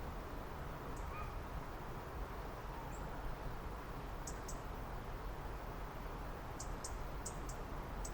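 Small songbirds giving short, very high chip calls, singly at first and then four or five in quick succession in the second half, over a steady background hiss and rumble of outdoor ambience.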